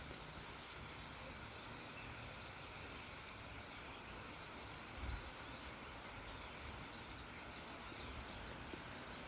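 A big flock of birds chattering together in a tree: a faint, steady mass of many overlapping high chirps, with a brief low bump about five seconds in.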